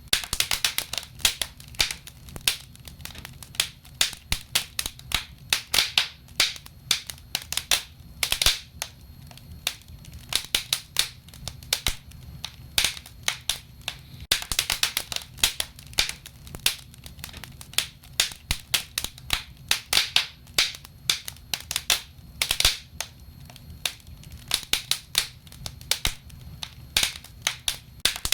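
Wood fire burning in a fireplace, crackling and popping in dense, irregular clicks over a low rumble of flames.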